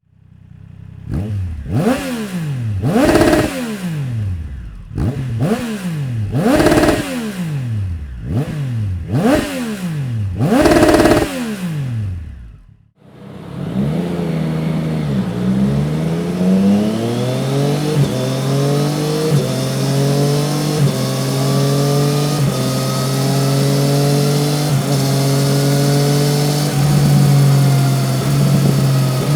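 Triumph Street Triple 765 RS's inline three-cylinder engine revved hard about four times, each blip rising and falling quickly. After a brief break it runs continuously for over ten seconds, its pitch climbing slowly like a dyno pull, and eases back near the end.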